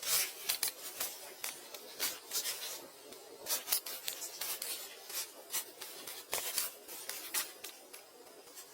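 Irregular scraping and rubbing with sharp light clicks, about a dozen short strokes spaced unevenly, from hand work on building materials.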